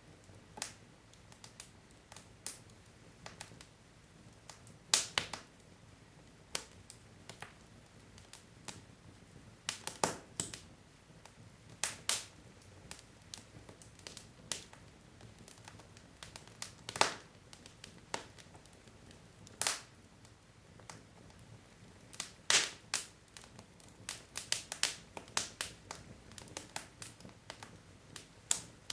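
Wood logs burning in a fireplace: irregular sharp crackles and pops over a faint low hiss of the fire, the pops clustering more densely toward the end.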